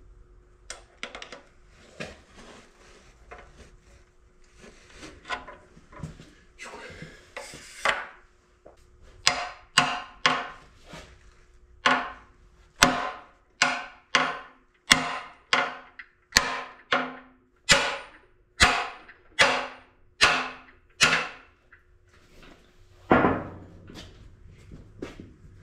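Hammer blows on an old balancer-shaft bearing in a CAT D4D diesel engine block. Light taps come first, then a run of about a dozen and a half hard, ringing metal strikes roughly every 0.7 s, and one heavier blow near the end. The bearing is not coming out.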